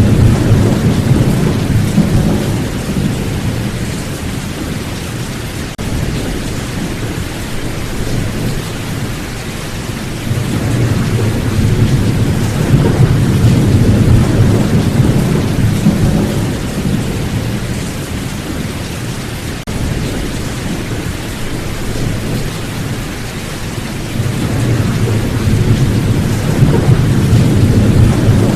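Steady rain with rolling thunder: a constant hiss of rain, with long low rumbles of thunder swelling and fading about three times.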